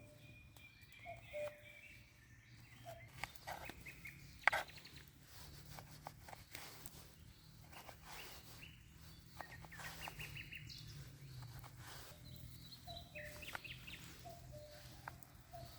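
Forest birds calling faintly: short repeated low notes and higher chirps, over scattered light clicks and ticks, with one sharp knock about four and a half seconds in.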